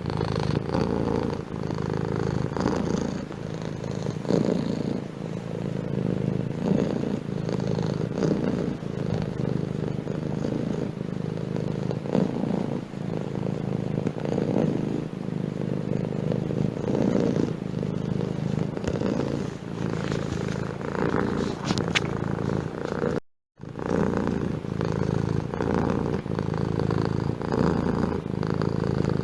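Domestic cat purring steadily, pulsing in a slow, even rhythm. The sound drops out completely for a split second about 23 seconds in, then carries on.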